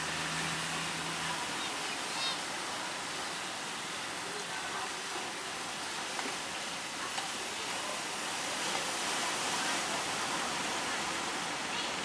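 Steady rushing roar of surf and breaking sea waves. A low engine hum, most likely a boat's, stops about a second in.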